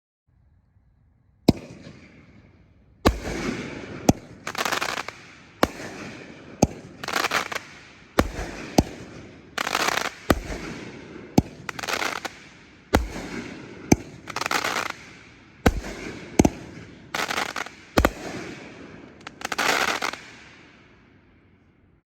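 A 500 g, 8-shot firework cake (T Sky Roaring Lion) firing: a string of sharp launch thumps and loud shell bursts, many followed by a short spell of crackling from the crackling-flower breaks. The crackle fades out near the end.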